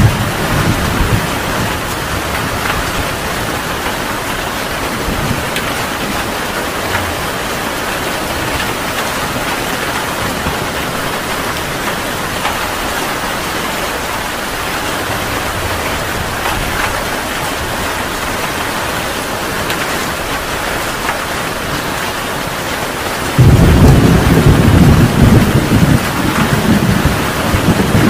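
Heavy rain falling steadily in a thunderstorm. Near the end, thunder breaks in suddenly and rumbles loudly for the last few seconds.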